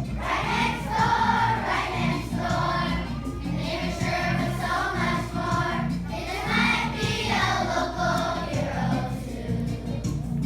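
Music: a choir singing over a low, steady accompaniment.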